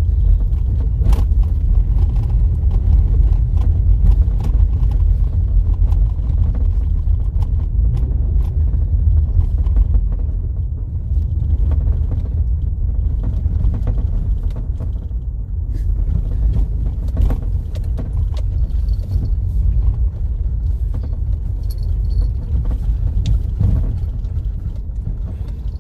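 Car driving on a rough dirt road: a steady low rumble from tyres and road, with scattered clicks and knocks as it bumps over the uneven surface.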